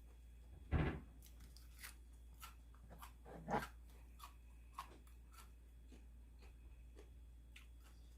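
A person eating close to the microphone: chewing and crunching, with two louder short bursts about a second in and at three and a half seconds, and small clicks between them.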